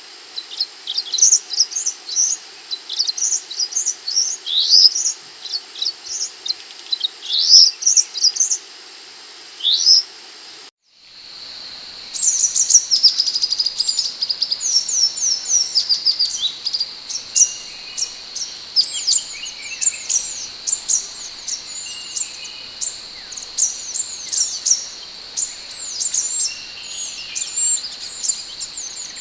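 Scarlet minivet calling: a rapid run of short, high, thin chirps, several a second. About eleven seconds in the recording breaks off for a moment, then resumes with a steady high whine running beneath the chirps.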